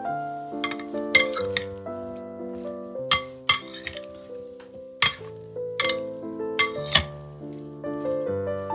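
Piano background music, over which utensils clink and scrape against a dish about ten times, in short, sharp strokes.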